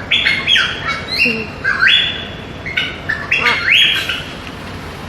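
Parrot giving a rapid series of loud, harsh squawks for about four seconds, then falling quiet.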